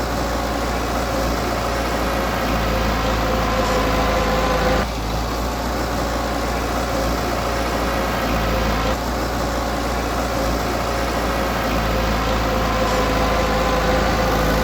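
Diesel engine of heavy earthmoving equipment running steadily, with a constant whine on top; the sound changes abruptly twice, about five and nine seconds in.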